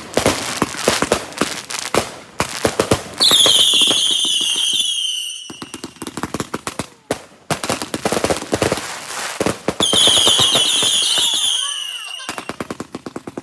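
Firework going off in a rapid string of sharp cracks and pops. Twice, about 3 and 10 seconds in, a loud shrill whistle cuts through for a couple of seconds, falling slightly in pitch.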